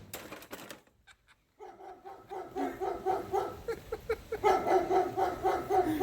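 A dog barking in repeated short barks, starting about two seconds in and coming faster near the end. Before the barking, a few faint clicks and then near silence.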